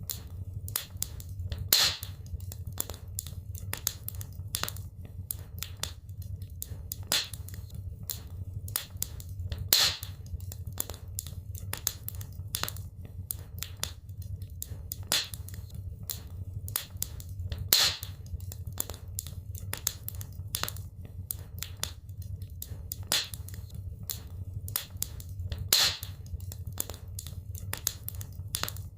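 Wood fire crackling in a fireplace: a dense run of small sharp crackles over a steady low rumble, with a louder pop about every eight seconds.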